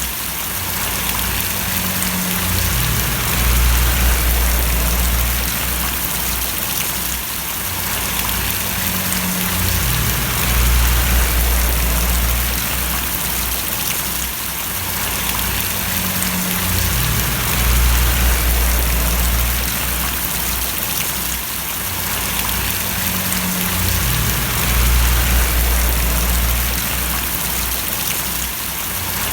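Steady rain falling and splashing in an even hiss. Under it, a low rumble swells and fades about every seven seconds.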